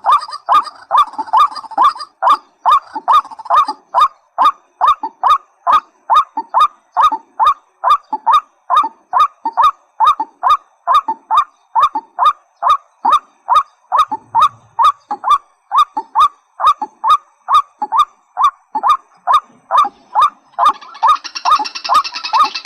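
A rail of the waterhen kind calling a long, even series of short, loud, downward-sliding notes, about two or three a second. Near the end a second, denser and higher chattering call joins in.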